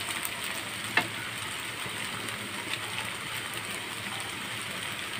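Macaroni, noodles and vegetables sizzling steadily in a hot nonstick frying pan. A utensil clicks against the pan once about a second in.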